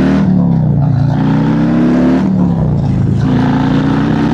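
Harley-Davidson 131 cubic-inch V-twin accelerating hard under load. The engine note climbs, drops sharply at a gear change about two seconds in, then climbs again.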